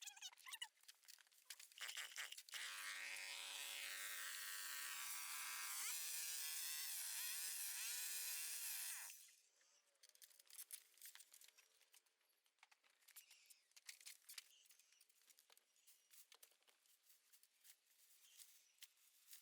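A small power tool's motor runs for about six seconds, its pitch stepping up about midway and then wavering, before it cuts off. Scattered light clicks and rustling come before and after.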